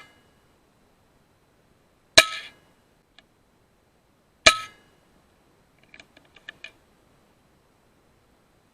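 Two shots from an FX Impact M3 .22 PCP air rifle about two seconds apart, each a sharp crack with a short metallic ring. These are followed by a quick run of light clicks.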